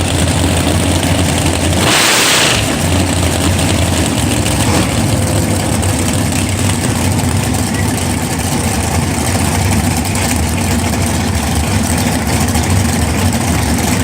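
A 1971 Plymouth Duster drag car's engine running at a steady idle, with a brief burst of hiss about two seconds in.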